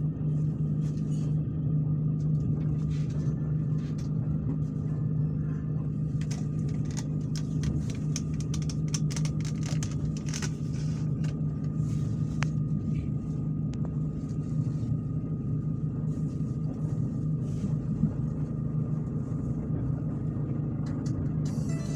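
Steady rumble of a moving passenger train heard from inside the carriage, with a constant low hum and scattered faint clicks and rattles.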